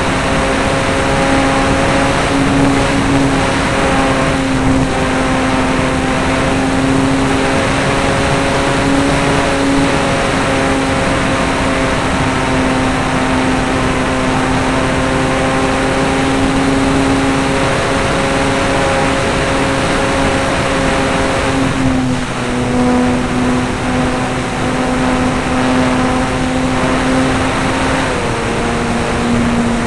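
RC model airplane's motor and propeller running steadily in flight, heard from a camera mounted on board, with wind rushing over the microphone. The drone's pitch eases down a little about two-thirds of the way through and again near the end, as the throttle is changed.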